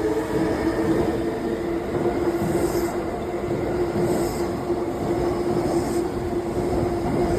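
E353 series electric multiple unit running on the rails, a steady rumble of wheels with a continuous held tone over it.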